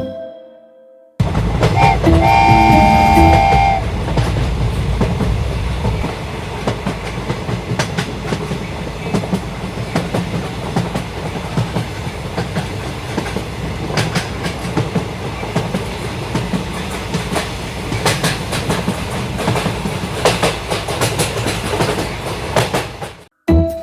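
A train horn blows for under two seconds about two seconds in, over the rumble of a train running on rails, which carries on steadily with repeated clicks of wheels over the track.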